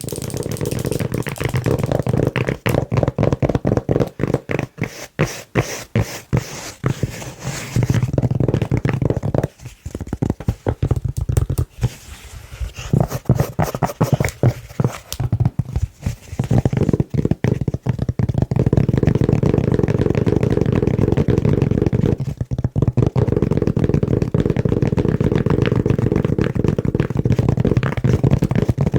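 Fast, aggressive tapping and scratching with long fingernails on a soft velvet-covered lid, a dense run of dull, muffled strokes that becomes an almost continuous scratching texture in the second half.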